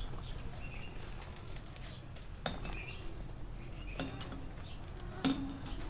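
Small bird chirping a few short times over a low steady rumble, with three sharp clicks about two and a half, four and five seconds in.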